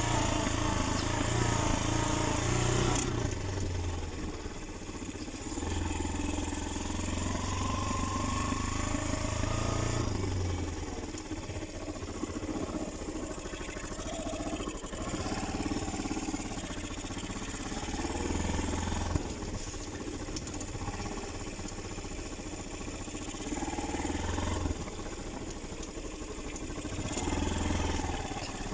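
Motorcycle engine running while riding, its low hum swelling and easing several times as the throttle changes, with a hiss of wind or road noise over it.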